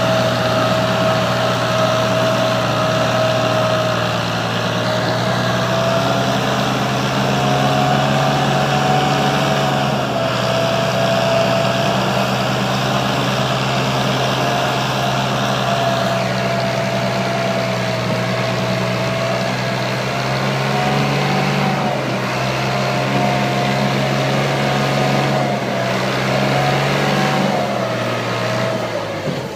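Tractor engine running steadily for a long stretch, a low engine drone with a higher whine that wavers slightly in pitch.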